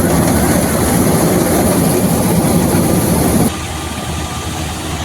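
Combine harvester running, a loud steady engine-and-machinery noise that drops suddenly to a lower level about three and a half seconds in.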